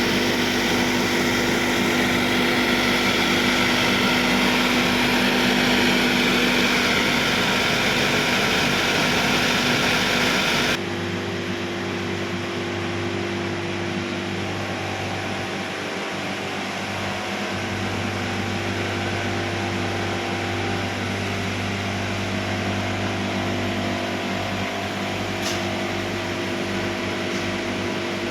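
Steady running noise of an LPG-fired industrial kiln's burners and blowers: a loud even hiss with a low hum. About eleven seconds in it changes abruptly to a quieter, lower steady hum.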